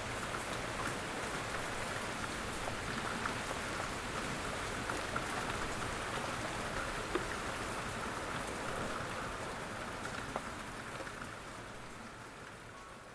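Steady rain falling, with scattered sharp ticks of single drops hitting close by. The rain fades out gradually over the last few seconds.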